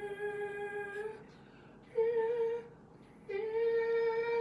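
A high, falsetto-like puppet voice singing long held notes without words. One note ends about a second in, a short higher note follows, and a long note is held from about three seconds in.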